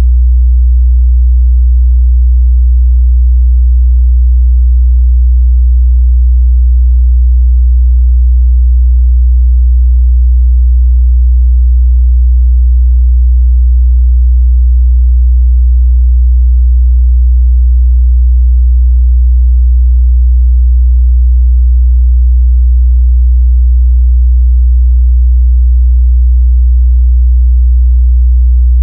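A steady, loud 61 Hz sine-wave test tone, a single low bass hum held unchanged without a break.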